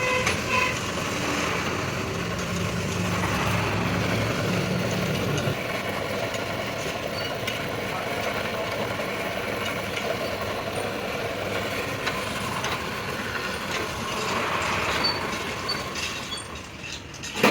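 Workshop machinery running steadily, with a low drone that drops away about five seconds in and a sharp knock at the very end.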